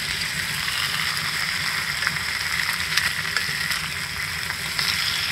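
Honeycomb-cut pork belly sizzling on top of a wood-burning stove: a steady sizzle with scattered small pops and crackles over a low steady hum.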